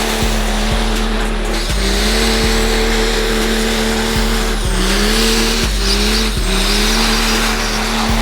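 Diesel truck engine held at high revs, its pitch dipping and climbing back several times, with tyres squealing in a burnout. A music track runs underneath.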